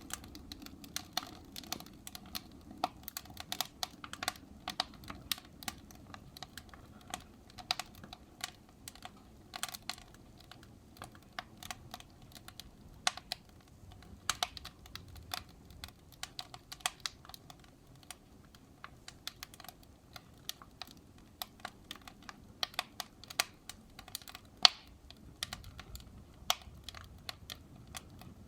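Wood fire burning in a fireplace, crackling with many quick, irregular pops and snaps over a faint low hiss from the flames; one pop stands out louder about three quarters of the way through.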